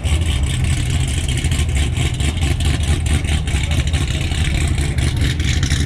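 A performance car's engine running nearby with a deep, steady exhaust rumble that sounds fast.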